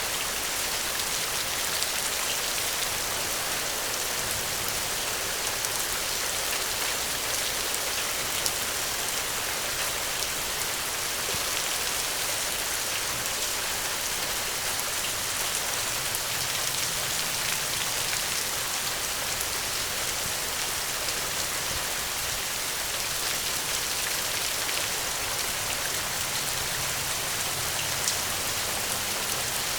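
Steady rain, an even hiss with scattered small ticks of drops, two of them slightly louder.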